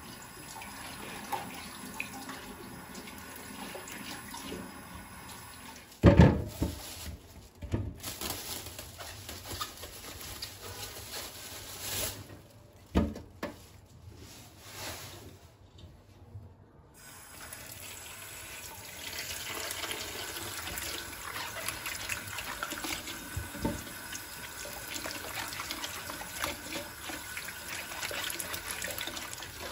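Kitchen tap running into a sink, with a few sharp knocks and clatters from things handled in the basin about six, eight and twelve to thirteen seconds in. The running water grows louder about two-thirds of the way through.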